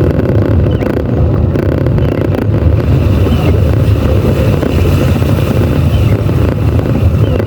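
Steady low rumble inside a moving car's cabin, driving through heavy rain on a waterlogged road.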